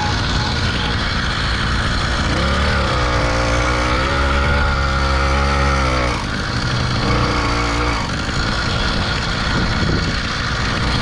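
Small motorbike engine pulling while riding, with wind rushing over the microphone: the engine note rises about two seconds in, holds for a few seconds, drops off, then comes up briefly once more.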